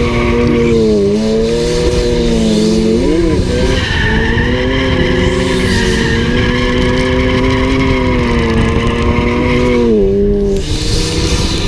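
BMW E46 M3 straight-six engine held high in the revs through a drift, over the hiss of tires skidding. The revs dip briefly about a second in and jump up and down quickly about three seconds in. They drop away near the end.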